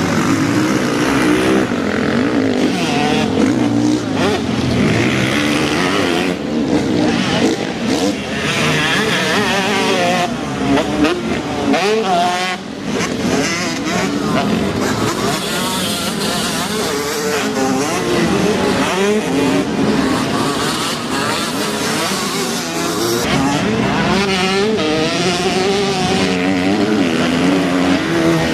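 Several motocross bikes racing, their engines revving up and down over one another as they accelerate and back off.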